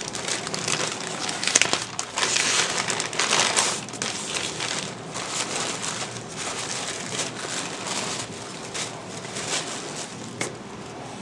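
Crinkling and rustling of packaging being handled, in irregular crackly bursts that come and go.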